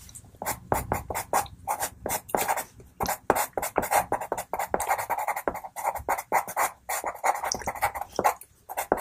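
Faber-Castell Pitt pastel pencil scratching across textured Ingres pastel paper in quick, short, uneven strokes, several a second, as reeds are flicked in with a dark Payne's Grey pencil.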